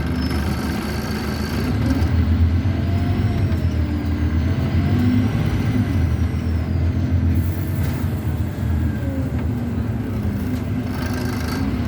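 Scania N230UD double-decker bus's diesel engine and ZF Ecomat automatic gearbox heard from on board, pulling with a turbo whistle that rises and falls as the bus speeds up and eases off. A brief hiss of air about seven seconds in.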